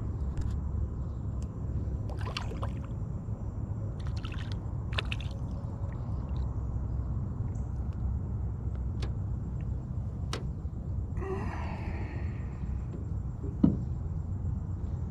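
Water sounds under a steady low rumble: a few light clicks and splashes, a short sloshing rush about eleven seconds in, and a sharp thump near the end.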